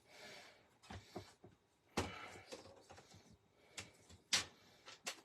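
Paper and craft tools handled on a desk: a brief rustle of paper about two seconds in and a few sharp light taps and clicks near the end.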